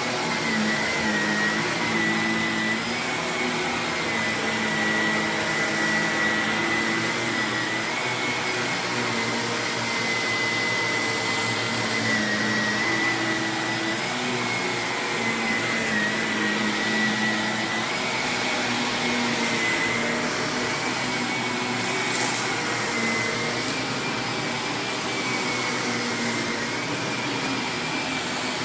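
Vacuum cleaner running steadily on carpet, its motor whine wavering slightly in pitch. There is a short crackle about three-quarters of the way through.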